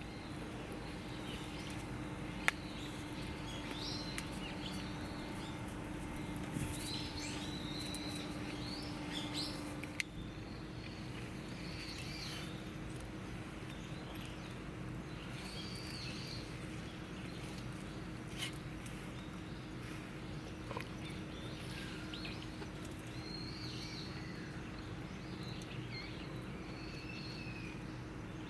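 Small birds chirping and calling on and off throughout, over a steady low hum, with a few sharp isolated clicks.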